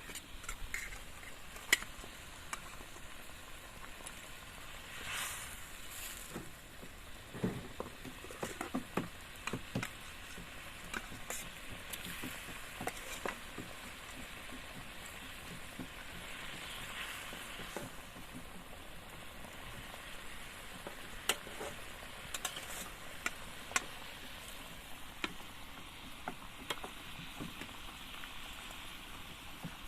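Food frying and sizzling in a pan, with scattered clicks and scrapes of a utensil stirring it.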